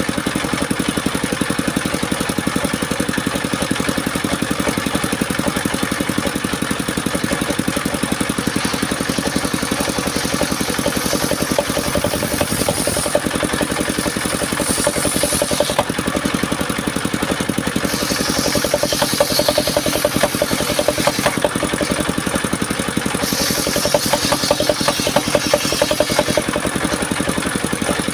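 Engine of a circular-saw sawmill running steadily with a fast, even pulse. A higher hiss comes and goes several times as the blade cuts through soft mahogany.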